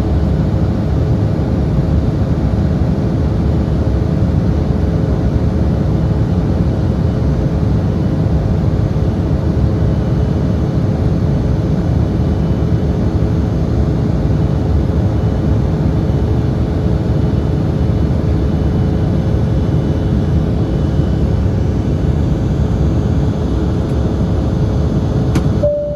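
Embraer E175 jet with its GE CF34-8E turbofans, a steady loud rushing roar with a constant engine hum, the cabin sound of the aircraft in its climb. A sharp click comes near the end.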